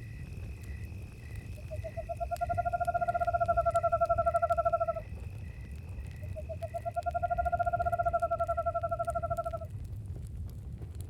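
An owl gives a long, even trill twice, each about three seconds. Crickets chirp steadily under it, with campfire crackle and a low rumble of fire.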